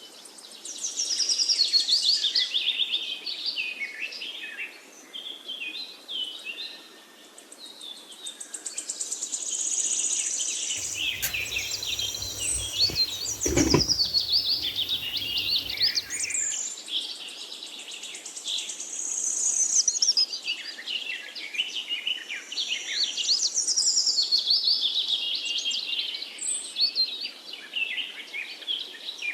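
Several birds chirping and singing, with many quick overlapping chirps and trills. A single low thump sounds about halfway through.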